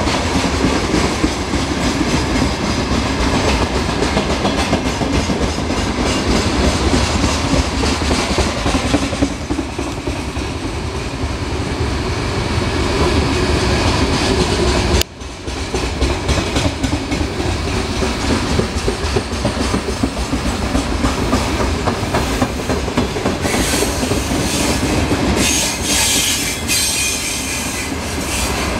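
Freight train of open gondola wagons rolling past close by: a continuous heavy rumble with wheels clattering over the rail joints. The sound drops out for an instant about halfway through, and the last few seconds turn harsher with high-pitched wheel screech.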